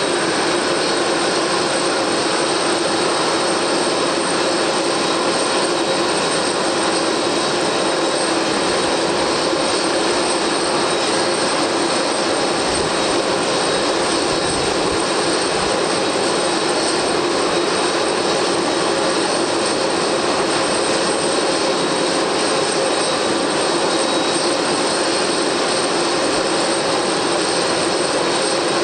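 Jet engines of a Boeing 767-300(ER) running steadily, with a constant rushing noise and a thin steady high whine.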